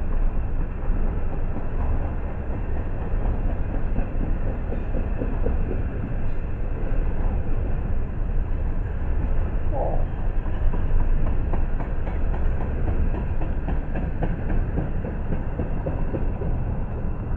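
Double-stack intermodal well cars rolling slowly past: a steady rumble of steel wheels on rail, with light clicking over rail joints in the second half.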